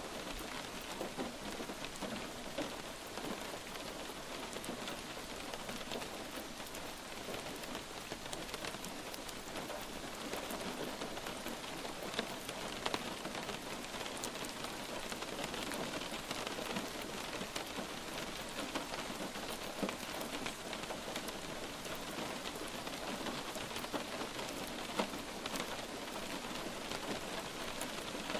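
Light rain falling steadily on a surface, an even hiss with scattered individual drops ticking.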